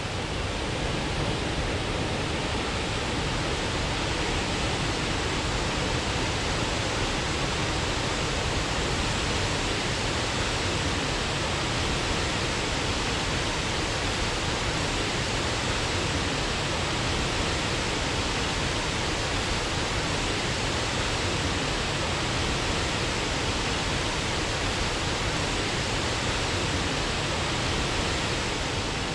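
Waterfall's steady, even rush of falling water, unchanging throughout.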